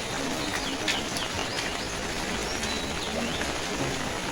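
Steady rain with scattered drips, and birds chirping and calling over it.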